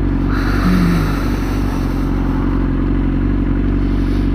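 Motorcycle engine idling steadily, its low pitch holding even.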